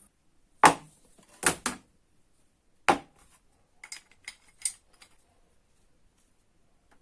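Metal tool parts knocking on a hard surface: four sharp knocks in the first three seconds, then a quick run of lighter clicks about four to five seconds in.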